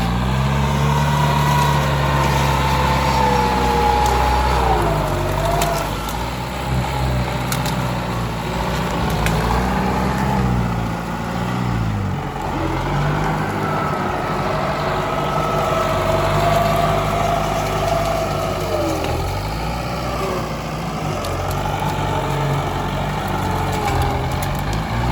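Tractor engine running under changing load, its pitch rising and falling several times as it works, with a higher whine that wavers along with it.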